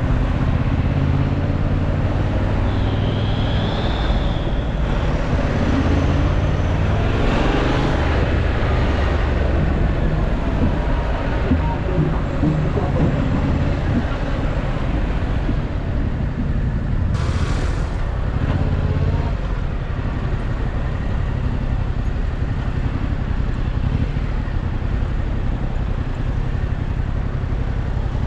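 Yamaha MT-07's 689 cc parallel-twin engine running under way through city traffic, with a steady low rumble and road and traffic noise. A short hiss comes about seventeen seconds in.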